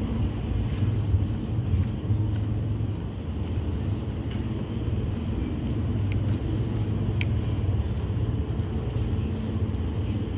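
Steady low ambient rumble, with a few faint clicks above it.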